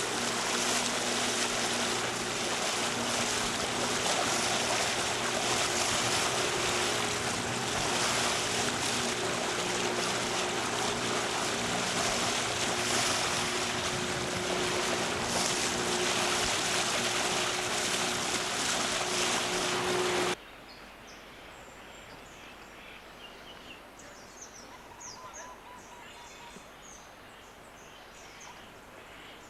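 Boat engine running with a steady hum under a rush of wind and water. About two-thirds of the way through it cuts off abruptly, and quiet background with small bird chirps follows.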